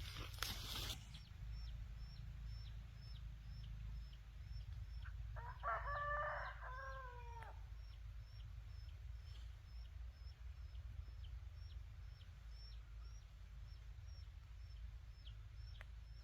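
A rooster crows once, a stepped call of about two seconds near the middle, over a steady low hum. Faint high ticks repeat about twice a second, and there is a short burst of noise at the very start.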